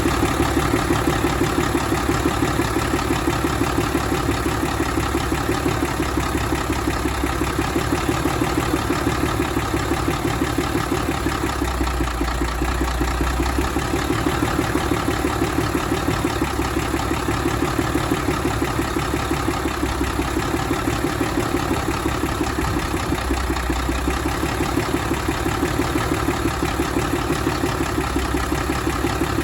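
1992 Cummins L10 inline-six diesel engine idling steadily, with an even, rapid pulsing beat.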